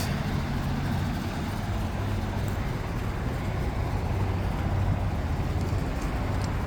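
York LX Series heat pump outdoor unit running, a steady low hum.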